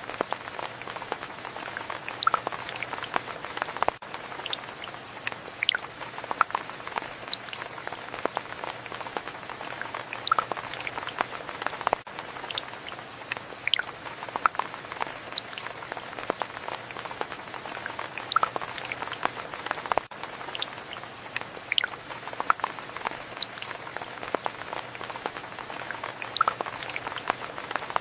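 Steady rain with many irregular close drops and drips tapping sharply over the even hiss of the downpour.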